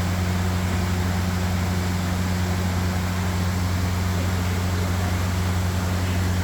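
A steady low mechanical hum with an even hiss over it, holding constant throughout.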